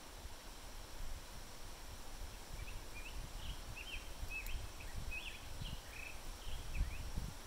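A small songbird singing a quick run of short, chirping notes starting about two and a half seconds in, over a low, uneven rumble.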